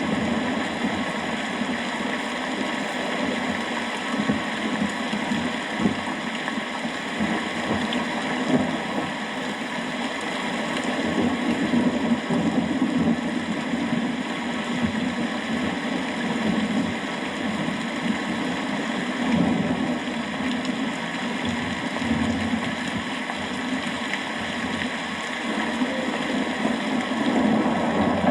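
Steady rain falling, a dense patter with a low rumble that swells and fades, strongest around twenty seconds in.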